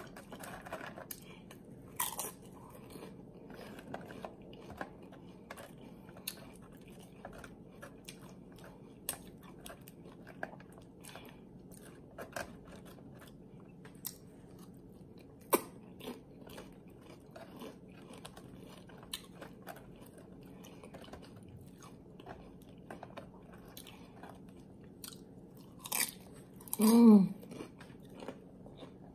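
Close-miked crunching and chewing of loaded tortilla-chip nachos, with many sharp crunches. Near the end comes one short, loud voiced hum from the eater.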